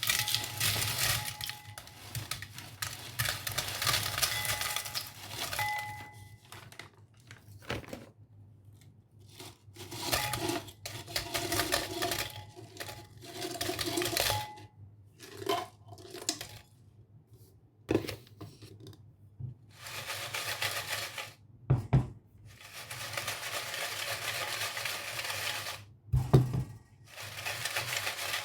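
Crackly crinkling and crunching from a bag of potato chips, in several bursts of a few seconds each with short pauses between.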